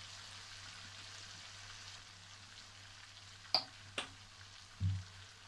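Diced chicken frying in oil in a non-stick wok as soy sauce is spooned in: a steady sizzling hiss. Two sharp clicks come about three and a half and four seconds in, and a short low thump near the end.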